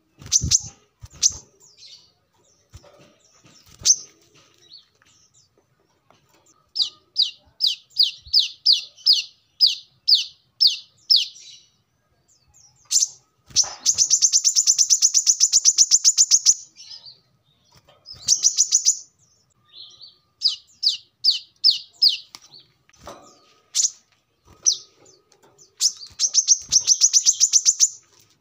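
Brown-throated sunbird singing vigorously: runs of sharp, high chirps at about four a second, broken by two fast rattling trills lasting about two to three seconds each, one near the middle and one near the end.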